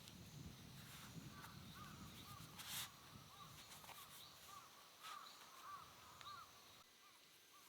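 Faint outdoor bird calls, short chirps repeating every half second or so, over a low rumble that dies away about halfway through.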